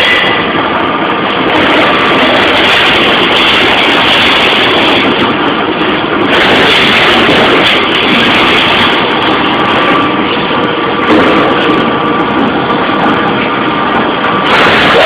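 Strippit 1000 SX CNC turret punch press at work, punching 1.6 mm stainless steel sheet: a loud, steady machine din with no pauses.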